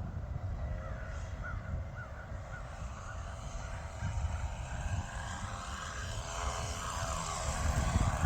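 Model airplane's glow engine running throttled back to idle as the plane passes low on a touch-and-go, its pitch dropping as it goes by, with wind rumbling on the microphone. The idle is set too high, so the plane floats and won't sink.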